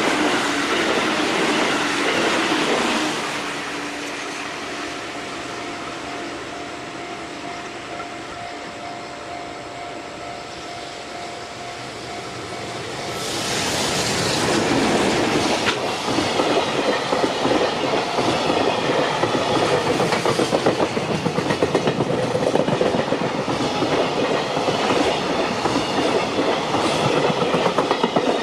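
A passenger electric train passes and fades away in the first few seconds. Then an EF210 electric freight locomotive comes up about thirteen seconds in and passes close, followed by container wagons with a fast, even clickety-clack of wheels over rail joints.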